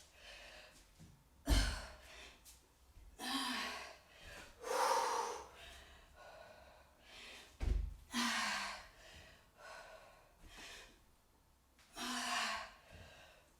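A woman breathing hard from exercise, with several loud gasping breaths a few seconds apart. There are two dull thuds, one about a second and a half in and one past the middle.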